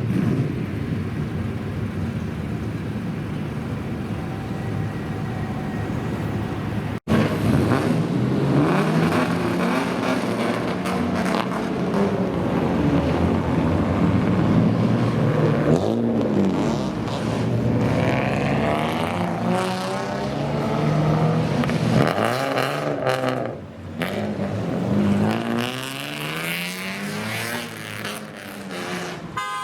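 Engines of modified old Japanese cars (kaido racers), loud, revved again and again so the pitch keeps rising and falling, several engines overlapping. The sound cuts out for an instant about seven seconds in; before that the engine noise is steadier.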